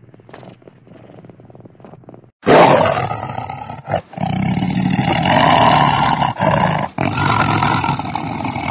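A domestic cat purring quietly, then, about two and a half seconds in, a tiger suddenly starts roaring loudly. The roar runs on with a few short breaks.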